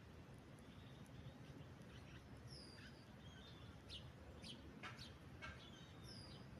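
Faint high-pitched chirping of small birds: a few short, falling whistled notes and quick chirps, mixed with scattered light clicks.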